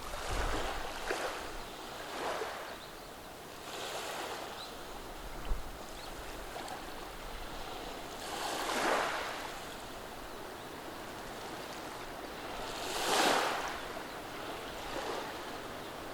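Gentle sea waves washing over a beach of rounded cobblestones. There is a steady hiss of water with a series of soft washes that swell and fade, the two biggest near the middle and about two-thirds of the way through.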